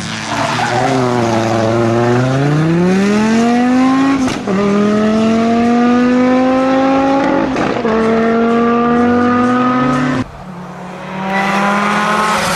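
Audi Quattro S1 rally car's turbocharged five-cylinder engine pulling hard under full throttle, its pitch climbing through the revs with quick upshifts about four and seven and a half seconds in. About ten seconds in the driver lifts off, the engine note drops and quietens, then it comes back on the throttle near the end.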